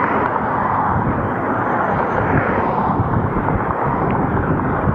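Steady rushing noise while riding an e-bike at speed: wind buffeting the microphone mixed with road noise.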